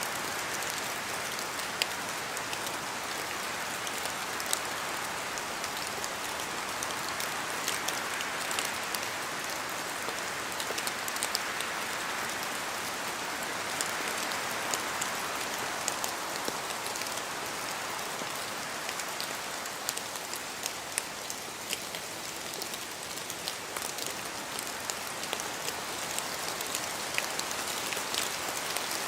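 Steady rain falling in a forest, an even hiss with many scattered drops ticking on leaves and surfaces; the hiss swells and eases gently, like gusts of wind through the trees.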